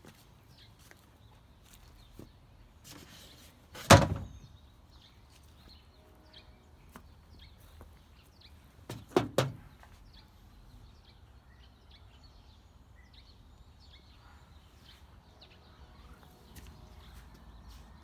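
A single heavy thunk about four seconds in, then a quick cluster of two or three knocks around nine seconds, with faint short ticks in between.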